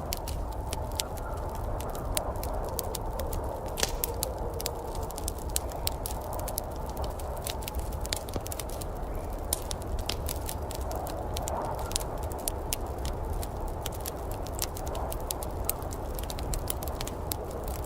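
Wood fire in a fireplace crackling, with frequent irregular sharp pops, over a steady low rumble of storm ambience.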